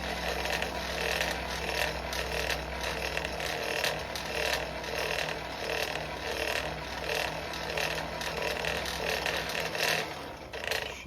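Coal forge with its air blower running, a steady mechanical drone with a low hum that swells and eases about once a second, with scattered faint clicks on top.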